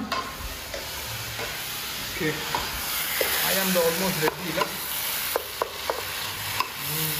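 Chicken sambal sizzling as it fries in a non-stick wok, stirred with a wooden spatula, with a few sharp knocks of the spatula against the pan in the second half.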